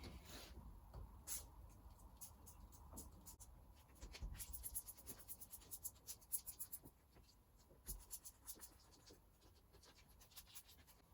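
Faint rubbing and scratching, with a quick run of small scrapes about four to seven seconds in: a car window's rubber seal being worked by hand with a tool and soapy water.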